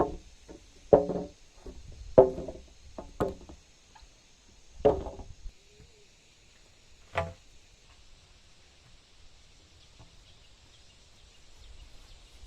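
Heavy blows of a tool on timber, about six ringing strikes a second or so apart that thin out and stop after about seven seconds.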